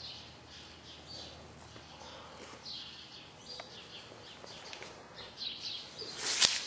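Faint, scattered bird chirps in the background, with one sharp knock near the end that is the loudest sound.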